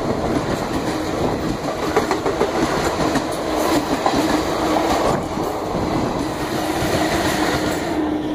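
An express train's passenger coaches rush past close alongside on the adjacent track, a steady loud rumble with wheels clattering over the rail joints.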